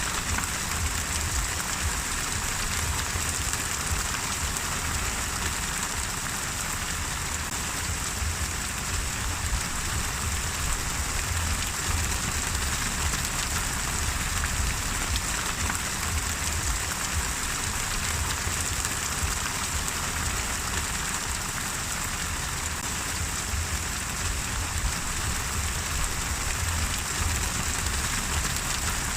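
Steady rain falling on a surface, an even wash of patter with no changes or pauses.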